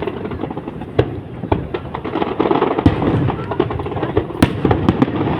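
Aerial fireworks bursting at a fireworks show: a string of sharp bangs, the biggest about one, three and four and a half seconds in, with dense crackling between them.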